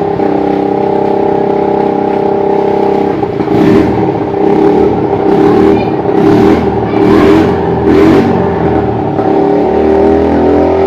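Motor vehicle engine running steadily. From about three and a half seconds in, a rhythmic noisy surge comes roughly once a second, five or six times, before the sound settles back to the steady engine.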